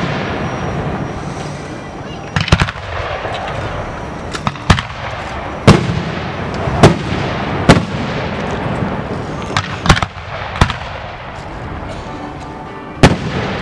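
Aerial fireworks shells bursting overhead: about eight sharp booms spaced a second or two apart, with a continuous noisy rumble between them.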